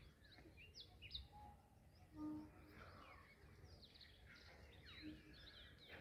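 Faint morning birdsong: several small birds chirping with short, quick high notes scattered throughout, over a low background hum. There is a brief low tone about two seconds in.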